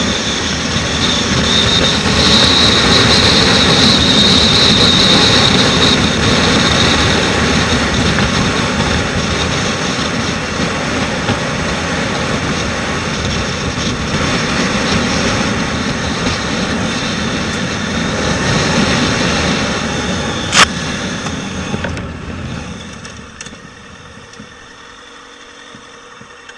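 Motorcycle riding at speed: steady engine and rushing wind noise that eases off a few seconds before the end, with one sharp click about twenty seconds in.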